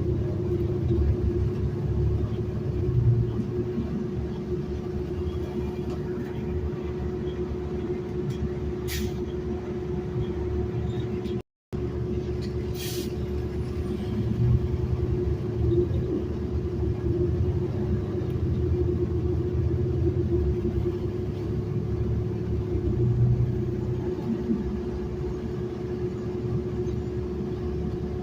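City transit bus riding along, heard from inside: steady engine and road rumble with a constant drone. Two brief high-pitched sounds come about four seconds apart, and the sound cuts out for a split second between them.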